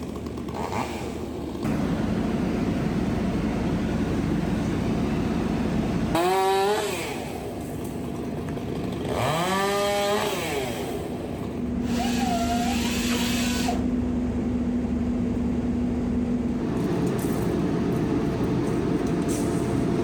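Two-stroke chainsaw running and cutting, revving up and back down twice, over a steady engine running underneath.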